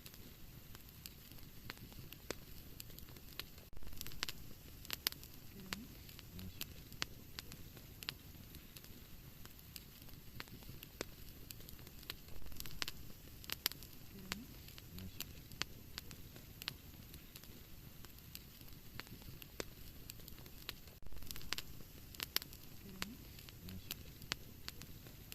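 Wood fire burning in a fireplace: a steady hiss of flames with irregular crackles and sharp pops, and a few louder clusters of pops. The same run of crackles comes round again about every eight and a half seconds, as in a looped recording.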